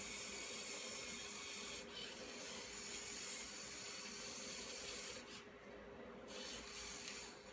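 Faint, steady, featureless hiss of room and microphone noise, with no distinct motor whine or knocks.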